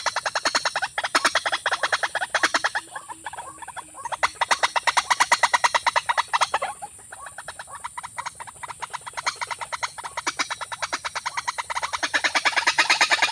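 A bird's call given as rapid runs of repeated knocking notes, about eight to ten a second, in several bouts that pause briefly and build up again near the end.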